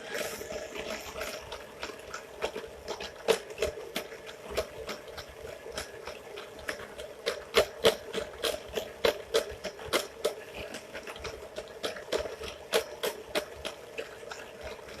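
Electric mixer running steadily as it creams butter and sugar in a small bowl, with frequent irregular sharp clicks and knocks over the motor hum.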